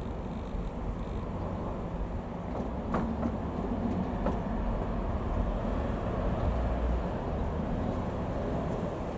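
Piston engine of a TL-3000 Sirius light aircraft running steadily as a low rumble, growing slightly louder about three seconds in, with a couple of faint ticks.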